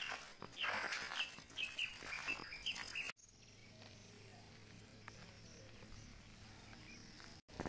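A bird chirping in a quick series of short rising notes for about three seconds. After a cut, faint outdoor ambience with a low steady hum.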